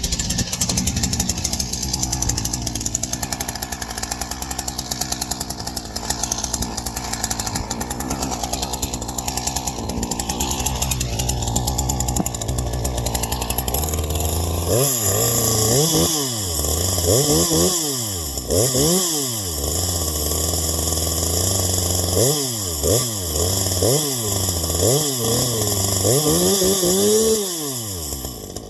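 Two-stroke chainsaw with a ported piston and deleted base gasket, idling for roughly the first half, then run at full throttle. Its pitch swings up and down again and again as it cuts wood.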